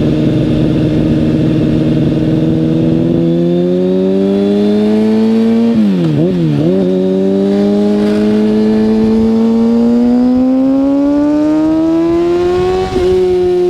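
Kawasaki ZX-6R 636 inline-four sport bike engine under riding load: steady at first, then the pitch climbs as it accelerates, with two quick dips about six seconds in. The revs climb again and drop sharply near the end at a gear change, then ease off slowly.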